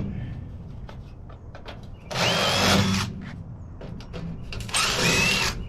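A power drill running in two short bursts of about a second each, its whine rising as it spins up, backing screws out of a golf cart charger's metal case. Light clicks and knocks of metal parts between the bursts.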